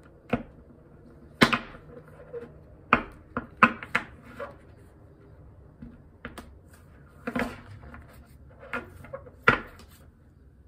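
A deck of oracle cards being shuffled by hand: irregular sharp taps and slaps of the cards, about a dozen spread unevenly, the loudest about a second and a half in and near the end.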